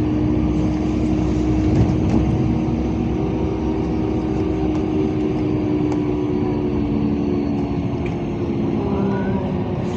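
Interior of a LiAZ 5292.65 city bus on the move: the steady drone of the engine and drivetrain with road noise, and a faint rising whine near the end as it picks up speed.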